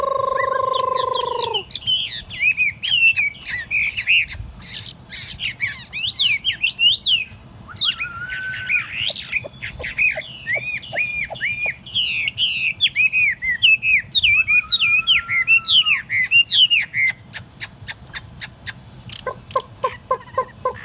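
Chinese hwamei (laughingthrush) singing: a long, varied song of fast, rapidly rising and falling whistled phrases, broken by a few drawn-out notes. It opens with a steady held tone that drops away about a second and a half in, and ends with a run of short repeated lower notes.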